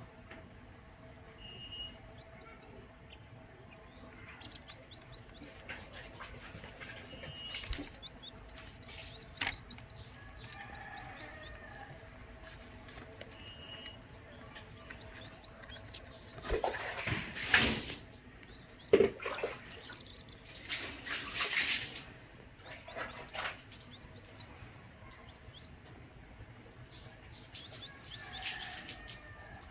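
Zebra dove chick chirping in quick runs of three to five short, high peeps, repeated every second or two. A few louder bursts of noise come about halfway through.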